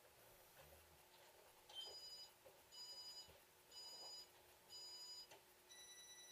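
Electronic race-start countdown: four short beeps about a second apart, then a longer, lower-pitched start tone near the end, signalling the start of a slot car race.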